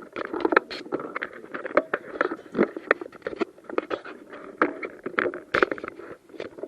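Irregular rustling and knocking of clothing and kit rubbing and bumping against a body-worn microphone as a player moves on foot.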